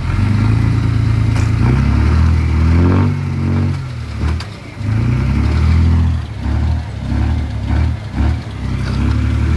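Heavy earthmoving machine's diesel engine revving under load, its pitch falling about three seconds in, then surging up and dropping back in short, irregular bursts.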